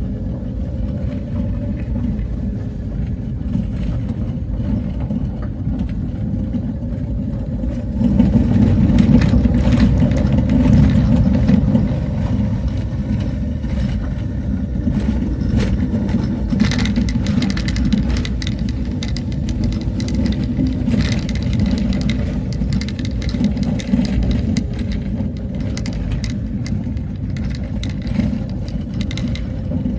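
A motor vehicle driving along, its engine and road noise making a steady low drone that grows louder about eight seconds in, with many short knocks and rattles coming through.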